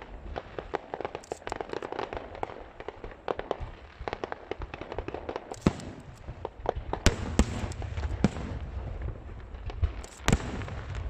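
Aerial fireworks show: a dense, irregular run of shell bursts and crackles over a steady low rumble, with a handful of louder single bangs in the second half.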